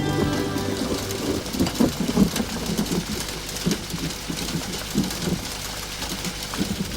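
Rain falling, with irregular low rumbles like distant thunder, slowly getting quieter.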